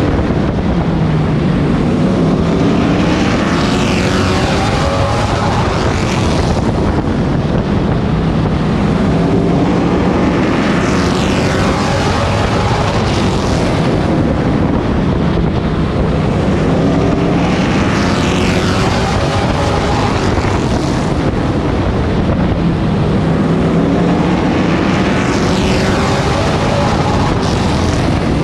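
Race truck's engine heard on board at race pace, climbing in pitch as it accelerates down each straight and dropping back as it eases into each turn, about every seven to eight seconds, over steady wind and road noise.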